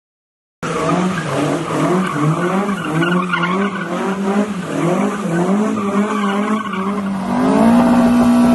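A car engine revving up and down over and over, starting suddenly, then holding a steadier, higher note near the end.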